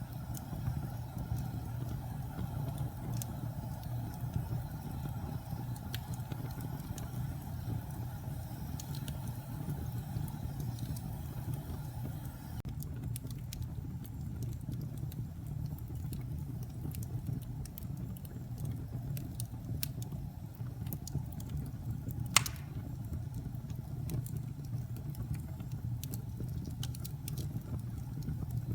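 Wood fire burning in a fireplace: a steady low rumble of flames with scattered crackles and one loud pop about 22 seconds in.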